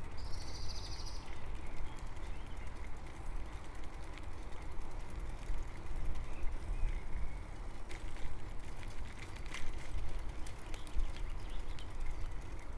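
Steady low wind-and-rolling rumble of a bicycle ride on the camera microphone, with a short bird trill about half a second in and a few light clicks later.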